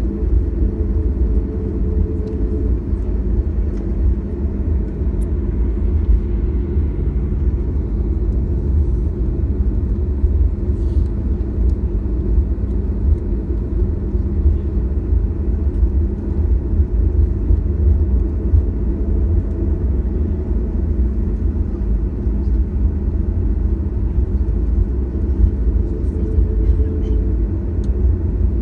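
Steady low rumble inside the cabin of a Boeing 737-800 on the ground after landing, its CFM56 engines running at idle with a faint steady hum over the noise.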